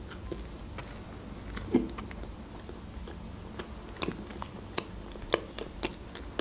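Close-up biting into and chewing a bread-like garlic stick dipped in garlic sauce: scattered wet mouth clicks as it is chewed, the strongest a little under two seconds in.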